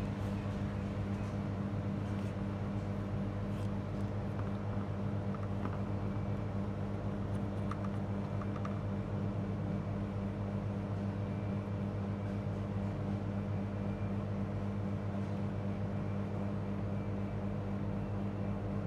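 Steady low electrical hum with a buzzing tone, unchanging throughout, with a few faint ticks.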